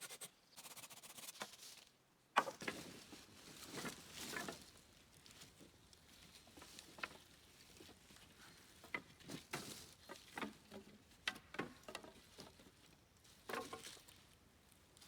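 Irregular light knocks, clicks and rustling, with an abrupt change in the background about two seconds in.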